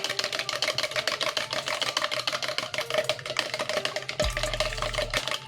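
Eggs being beaten by hand in a bowl, the utensil clicking against the bowl in a fast, steady rhythm.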